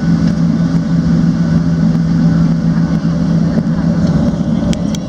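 Steady low hum and rumble inside the cabin of a Boeing 737-700 on the ground, with a droning tone that fades out about three seconds in. A couple of short clicks near the end.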